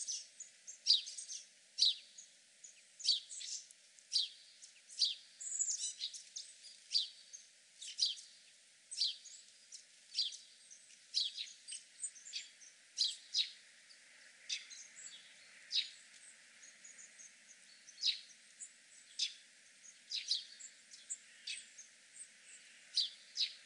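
Small birds chirping, short separate chirps about once or twice a second.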